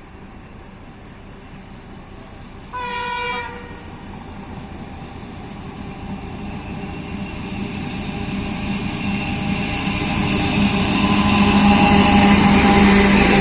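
Diesel locomotives approaching. A short horn blast comes about three seconds in, and then the engines grow steadily louder as they draw near, with a deep steady drone building toward the end.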